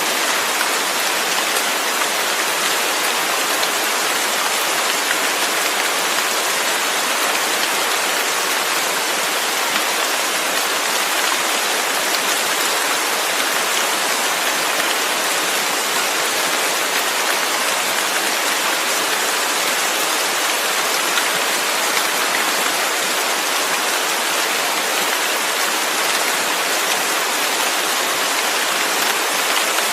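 Steady rain, an even, unbroken hiss with no thunder and no single drops standing out.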